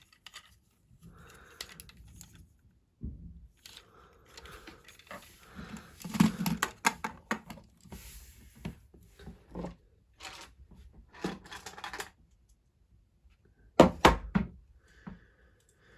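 Plastic Lego models and pieces being handled and set down on a surface: scattered light clicks, rustles and knocks, with two sharper knocks near the end.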